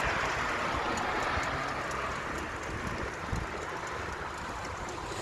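Traffic and wind noise heard from a moving bicycle: a passing vehicle's hiss sinks in pitch and fades over the first couple of seconds, over a steady low rumble of wind on the microphone.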